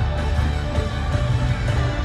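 Live concert music played loud with a heavy, steady bass.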